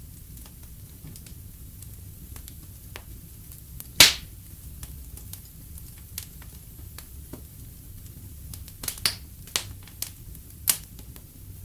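Fireplace fire crackling over a low steady rumble, with scattered sharp pops: one loud pop about four seconds in and a quick run of pops near the end.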